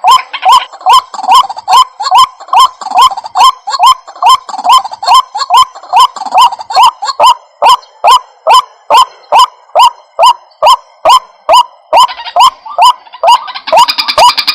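White-breasted waterhen calls played as a lure recording: a steady, rapid series of harsh 'kwak' notes, about three a second, each starting with a sharp click. In the last couple of seconds a second, busier layer of calls joins in.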